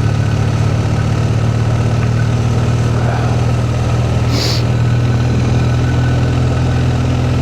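BMW R1250R boxer-twin engine running steadily at low revs in a low gear on a slow, steep climb, with its cooling fans running. A brief hiss about four and a half seconds in.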